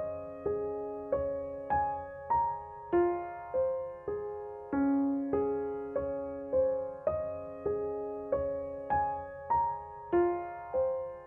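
Background piano music: a slow, even run of single notes, each struck and left to ring and fade.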